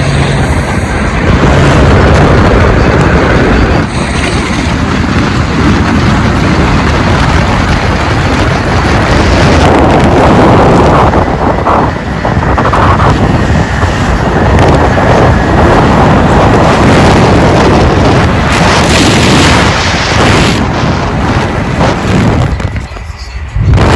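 Loud, continuous car engine and exhaust noise, overloading the phone microphone, with wind buffeting the microphone.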